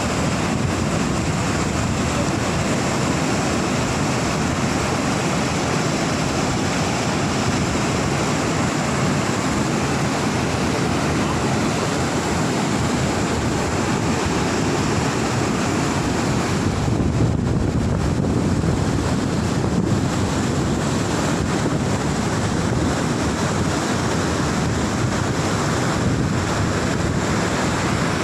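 Waterfall's falling water rushing, a loud steady unbroken noise. About two thirds of the way in, the hiss briefly dulls while a low rumble grows stronger, then it evens out again.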